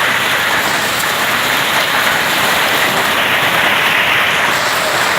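Heavy rain pouring down steadily in a summer downpour.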